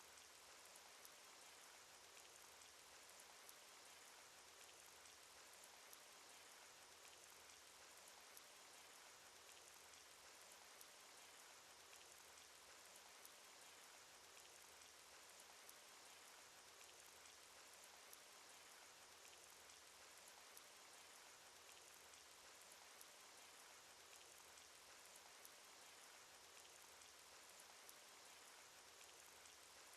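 Faint steady rain sound effect from a cartoon: an even hiss of rainfall with many small raindrop ticks scattered through it.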